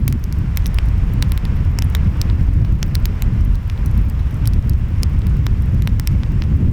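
Wood fire crackling, with frequent sharp pops and snaps, over a steady low rumble of breaking waves and wind.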